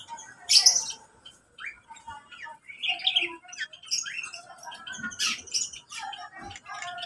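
Mixed cage birds in an aviary, lovebirds among them, chirping and squawking in short, overlapping calls, with a loud shrill squawk about half a second in.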